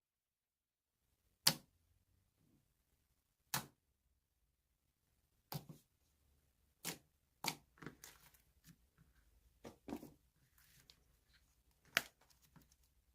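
Slime being played with by hand: sharp popping snaps, about seven spaced a second or two apart, with softer crackling between them in the later part.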